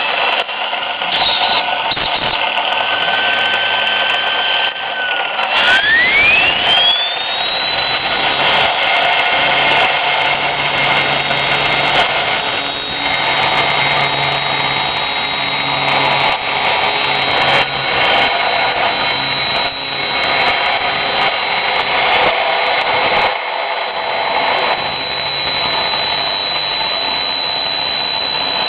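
Wilesco T90 model steam turbine running with a steam hiss and a high whine. About five seconds in, the whine's pitch sweeps sharply upward as the turbine speeds up, then holds steady.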